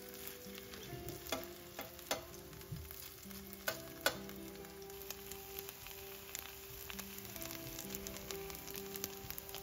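Grated potato and onion patties sizzling in hot oil in a stainless steel frying pan, a steady crackling hiss. In the first half a few sharp clinks of a metal spoon against the pan come as the mixture is spooned in.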